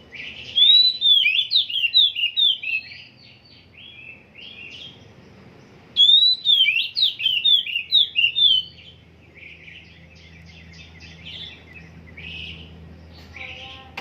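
Oriental magpie-robin singing: two loud phrases of varied, quickly changing whistled notes, each two to three seconds long, with softer twittering between and after them.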